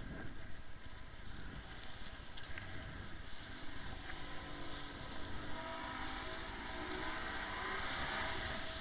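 Motorboat engine running under way, with the rush of wind and water over it; from about halfway the engine tone climbs slightly and the hiss grows louder.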